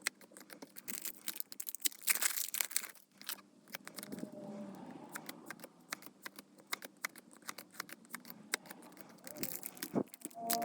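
Foil booster-pack wrappers crinkling and tearing, with trading cards and packaging handled in quick small clicks and rustles, loudest in two brief bursts about two and three seconds in.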